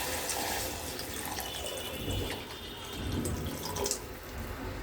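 Water being poured into a hot pan of stir-fried onions and sausage, a steady splashing pour with a few small clicks.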